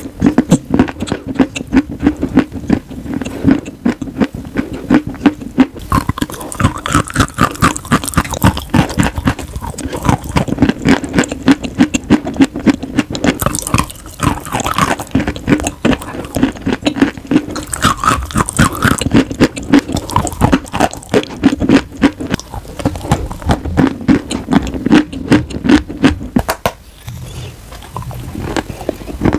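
Close-up crunching of chewing on eating chalk, right at the microphone, in a fast, dense run of crackles. There is a brief quieter pause near the end, then crunching starts again.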